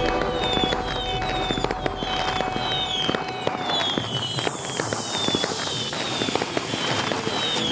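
Aerial fireworks exploding overhead: a dense run of sharp cracks and pops, with short falling whistles repeating through it.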